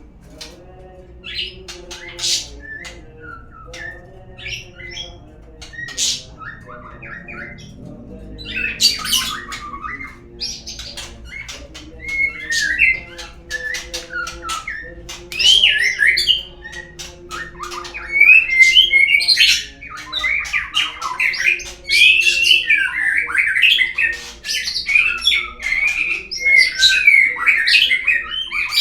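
Murai songbird song: quick chirps and whistled warbling phrases, sparse at first and turning into dense, continuous warbling from about a third of the way in.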